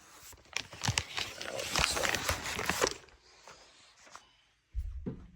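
Rustling and crinkling handling noise with a few sharp clicks for about three seconds as the toilet's plastic parts are moved about, then quiet, then a low thump near the end.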